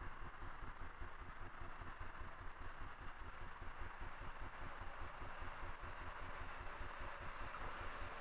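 Electric multiple-unit passenger train approaching on the track, its rolling noise building slowly, over a low throbbing rumble.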